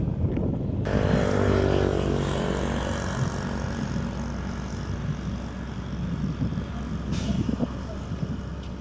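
An engine running at a steady pitch, starting abruptly about a second in and slowly fading.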